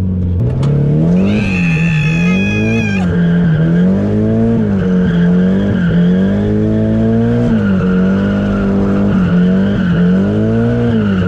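Nissan 240SX drift car sliding: the engine's revs rise and fall again and again as the throttle is worked, with the tires squealing throughout, a high squeal loudest from about one to three seconds in.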